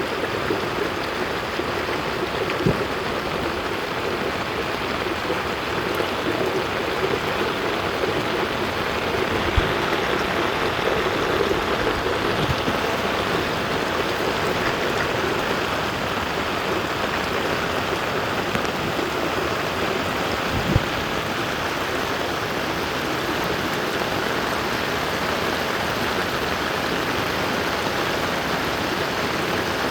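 Floodwater rushing steadily down an unclogged storm drain, with a few brief knocks scattered through.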